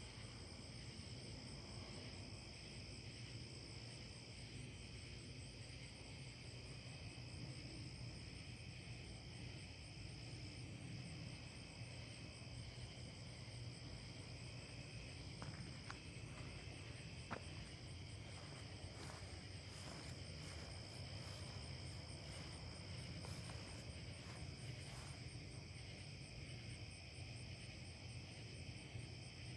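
Night chorus of crickets and other insects: steady high-pitched trilling at several pitches at once. A run of short clicks comes in around the middle, and there is a low rumble beneath.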